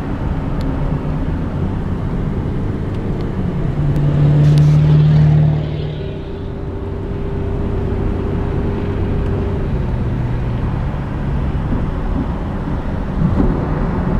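Steady motor-vehicle rumble of road traffic or a car running, with humming tones that shift in pitch. It grows louder about four seconds in and eases back after a second and a half.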